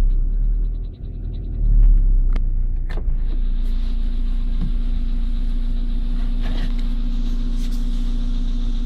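Volkswagen Polo sedan petrol engine running, with a fast, even knocking for about the first second. A few sharp clicks follow, then the engine runs on steadily with a constant whine.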